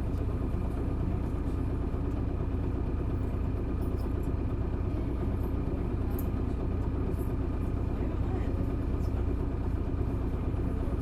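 Isuzu Erga city bus's turbo-diesel inline-six engine running at a steady pitch, a constant low drone with no revving up or down.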